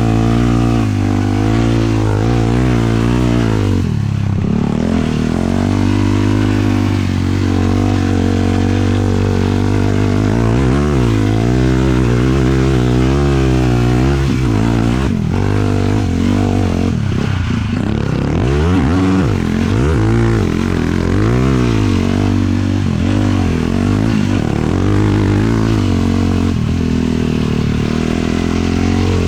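A 450 sport quad's single-cylinder four-stroke engine running under riding load, its pitch rising and falling over and over as the throttle is opened and closed and the gears change, with a few sharp drops off the throttle.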